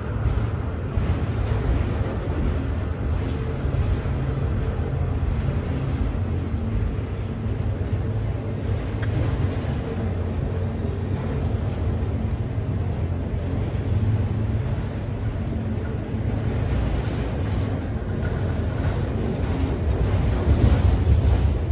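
Norfolk Southern freight train passing at close range: a steady low rumble of the train rolling on the rails.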